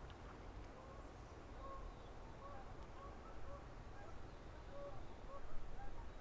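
Birds calling in a run of many short, low-pitched notes, several a second, some slurring upward, over a low rumble that grows louder near the end.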